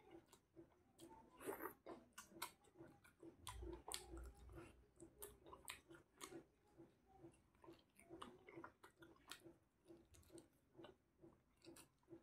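Faint chewing and mouth sounds of someone eating chicken curry and rice by hand: soft wet smacks and small clicks, with a soft low bump about four seconds in.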